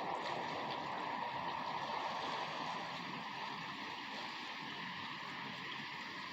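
Steady rainfall, an even hiss of many drops with faint scattered ticks, a little louder in the first few seconds.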